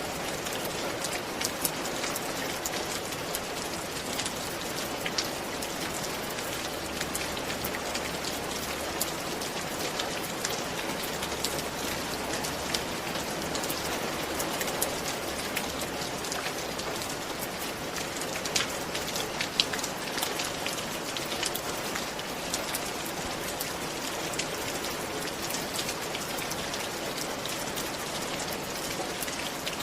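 Steady rain falling on a surface, with many separate drops ticking through an even hiss.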